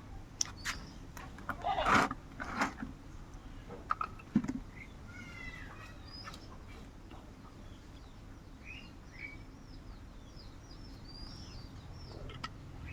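Birds chirping in short calls and quick falling runs of high chirps, with a few sharp clicks and a louder rustling burst in the first few seconds.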